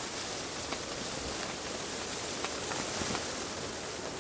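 Steady hiss of a blizzard, wind and driven snow, with a few faint light ticks.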